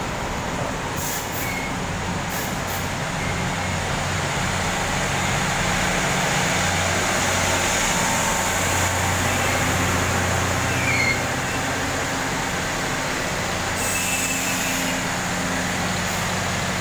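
Electric passenger train running past a station platform: a continuous rumble of wheels on rail with a steady low motor hum, growing louder to a peak about ten seconds in, with a few brief high squeaks or hisses.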